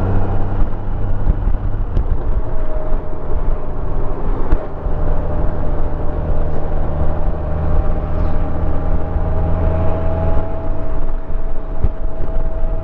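2021 Honda Gold Wing Tour's flat-six engine running steadily while riding along, with rushing wind and a steady higher whine over the engine hum.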